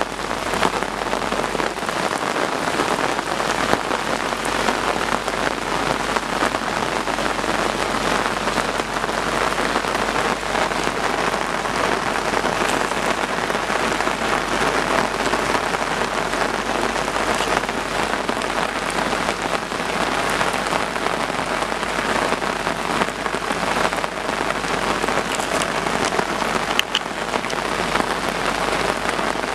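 Heavy monsoon rain falling steadily, a dense even hiss of rain on surfaces.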